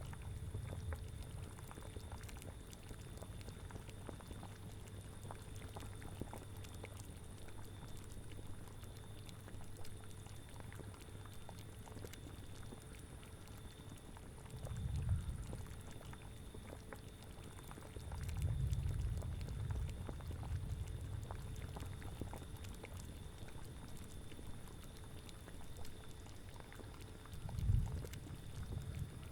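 Cauldron bubbling at a steady boil, a dense run of small pops and gurgles, with low gusts of wind swelling three times: about halfway, soon after, and near the end.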